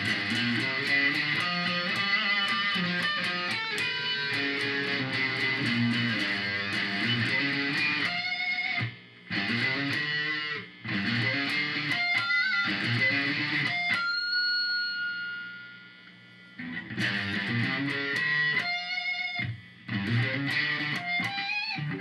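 Electric guitar played through the Korg A5 multi-effects processor's distortion set to maximum gain: heavily distorted riffs and chords, broken by a few short pauses, with one held note left to ring out and fade about two-thirds of the way through.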